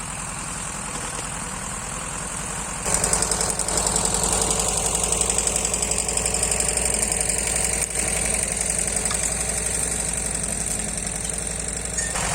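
Taiga 214 two-stroke petrol chainsaw running steadily at idle. It gets clearly louder about three seconds in.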